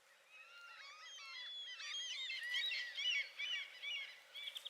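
Songbirds singing: a busy run of whistled notes sliding up and down, building from about half a second in and breaking into short repeated phrases.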